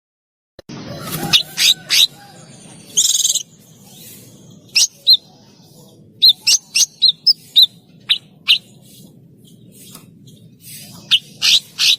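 Songbird calling in short, sharp, high chirps, some in quick runs, with a buzzy trill about three seconds in; the calls start after a brief silence at the beginning.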